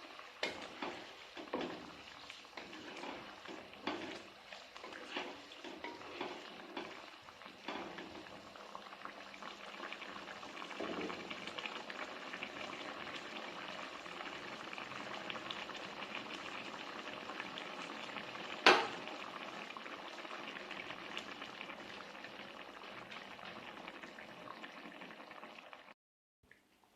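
Food bubbling and sizzling in a hot pan as a steady hiss, with scattered knocks and clicks in the first several seconds. There is one sharp click about two-thirds of the way in, and the sound cuts off abruptly near the end.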